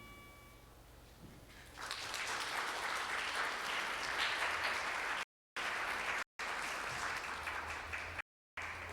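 The last held note of the music fades out, then audience applause starts about two seconds in and carries on; the sound drops out completely for moments several times in the second half.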